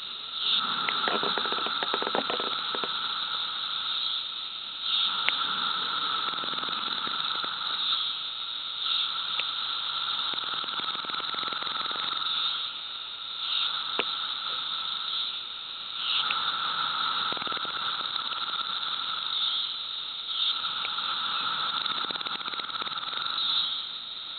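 Magicicada cassini periodical cicadas calling: a loud, steady buzzing chorus pitched around 1.3 kHz that swells and fades in waves every few seconds.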